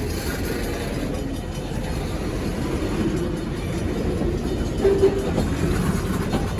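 Freight train rolling past, a steady rumble of wheels on rail, with a brief squeal about five seconds in.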